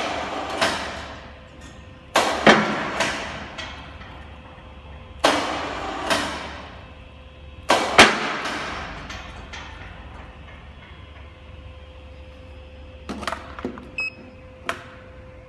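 Loud metallic clanks and thuds in four clusters, each ringing out, then a few lighter knocks near the end, over a faint steady hum.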